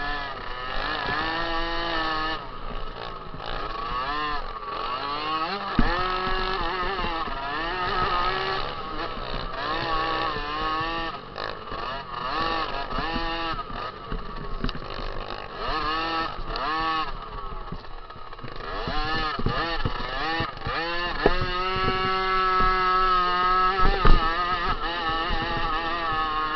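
50cc two-stroke motocross bike engines revving hard. The pitch keeps climbing and dropping as the throttle opens and shuts through the corners and jumps of a race.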